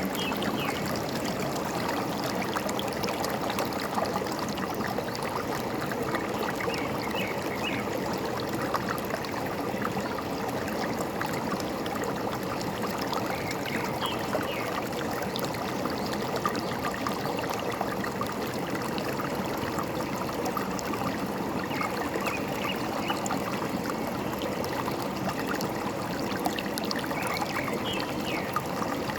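Forest stream running steadily, with a few faint, short bird chirps every several seconds.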